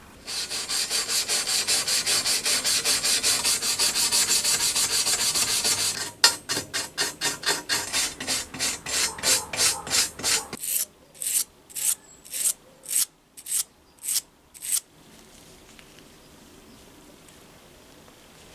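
Rhythmic back-and-forth rubbing strokes by hand on a lantern part: fast and even, about six a second, for the first six seconds, then slower, and finally separate strokes about two or three a second that stop about fifteen seconds in.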